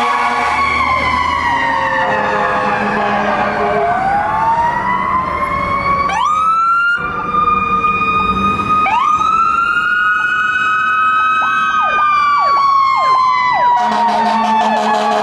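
Fire apparatus sirens on an emergency response, several overlapping: slow wails rising and falling in pitch, with a quick run of sharp dips a little past the middle, and a steady horn-like blast coming in near the end.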